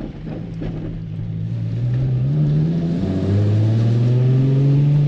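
Nissan 350Z's 3.5-litre V6 engine revving up under acceleration: the pitch climbs, drops briefly about three seconds in, then climbs again as it gets louder.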